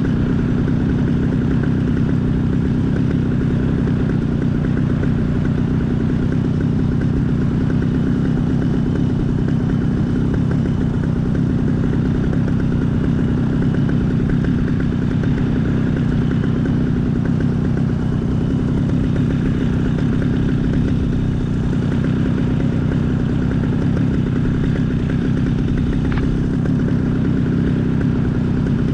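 Small aircraft engine running steadily at low power, throttled back rather than shut off for a simulated engine-out glide, with a steady rush of air over the microphone.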